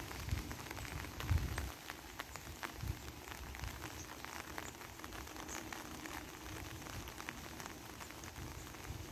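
Rain falling on a pond: a steady hiss with many small separate drop ticks. A low rumble, like wind on the microphone, sits under it in the first couple of seconds.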